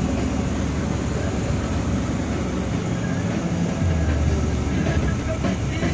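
Steady road and engine noise heard from inside a moving vehicle, with a low hum that swells for about a second near the middle.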